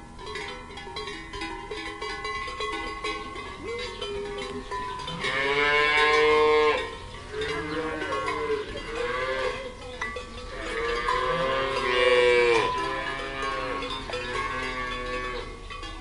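Cattle mooing: two long moos, each rising and then falling in pitch, about five and eleven seconds in, over steady ringing tones.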